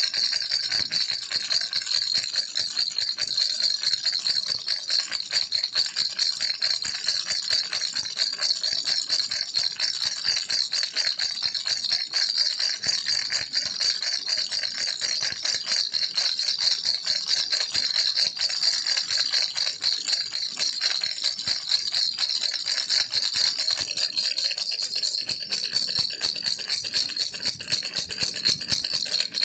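Baby rattle (kiliki) shaken continuously: a steady, dense, bright rattling without a break.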